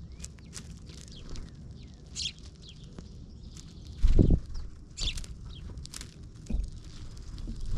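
Small birds chirping and calling, in short scattered notes. There is a loud, brief low thump about four seconds in.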